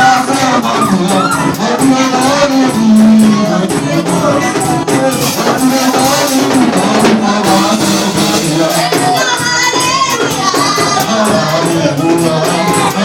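Music: voices singing to a steady percussion beat.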